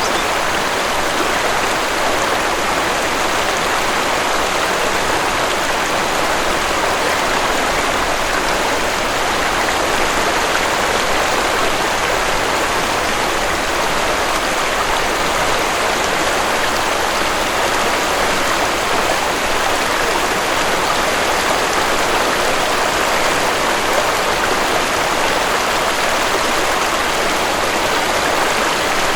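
Waterfall: falling water rushing steadily in an even, unbroken hiss.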